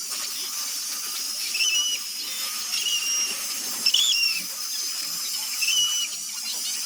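High-speed rotary carving tool whining as it cuts wood, a steady hiss with a high-pitched whine that breaks in and shifts pitch several times.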